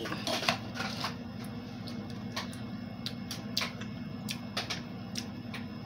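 Faint, irregular clicks and smacks of a person chewing a spoonful of soft homemade food, with a spoon tapping now and then, over a steady low hum.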